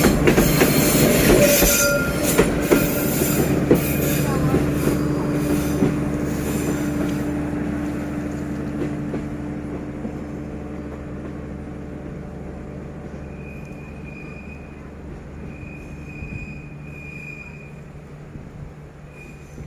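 Passenger train hauled by a D19E diesel-electric locomotive running past, with wheels clicking and squealing on the rails over a steady low engine hum. The sound fades steadily as the train moves away, and by the end only a faint hum remains.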